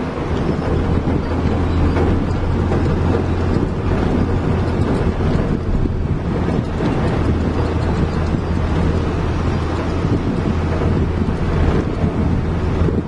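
Heavy diesel engine running steadily under load, a deep hum with engine and wind noise over it.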